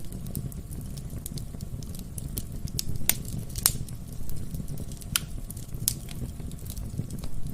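Wood fire in a fireplace crackling: scattered sharp pops and snaps over a steady low rumble of the burning logs, with two louder pops about three seconds in, half a second apart.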